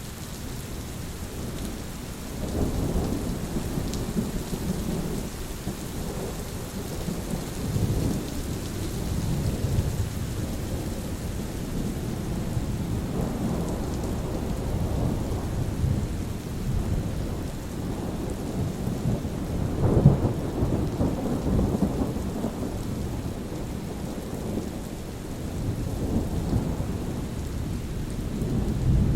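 Steady rain with rolling thunder, the low rumble swelling and fading throughout; a louder crack of thunder comes about two-thirds of the way in.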